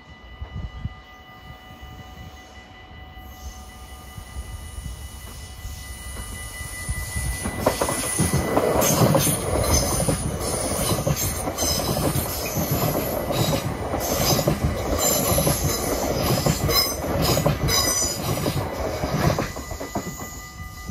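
NS Sprinter electric train passing close by: its wheel rumble builds and is loud from about seven seconds in, with a rhythmic clatter of the wheelsets over the rail joints and a thin, high squeal, then drops away near the end. A level-crossing bell rings steadily underneath throughout.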